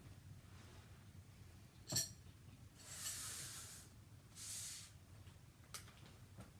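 A single sharp clink about two seconds in, like a hard object set down, followed by two short hissing swishes and a couple of light clicks near the end: small objects being handled on a table.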